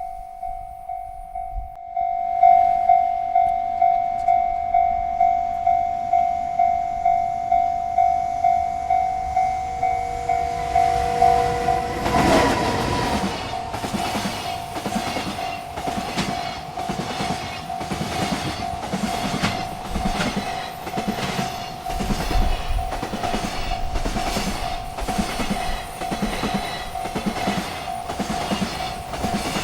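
Railroad crossing bell ringing in quick, steady strokes. About twelve seconds in, a freight train arrives and passes, its wheels clacking rhythmically over the rail joints while the bell keeps ringing underneath.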